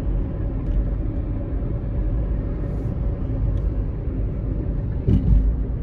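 Steady low rumble of a road vehicle running, with a steady hum over it and a brief louder swell about five seconds in.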